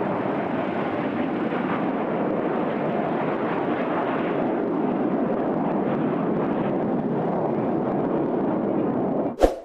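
Steady roar of a jet aircraft at an airshow, even and unbroken, ending abruptly with a sharp click near the end.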